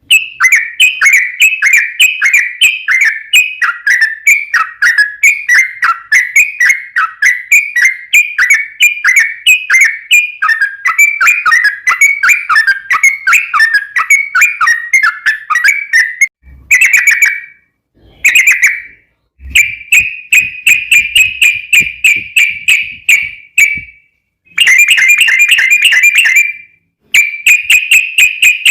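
Yellow-vented bulbul (trucukan) singing a long, rapid run of bubbling, slurred whistled notes, several a second. After a steady first half, the song breaks into shorter runs with brief pauses.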